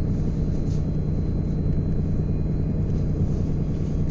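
Steady low rumble of a ship's engine running at slow ahead.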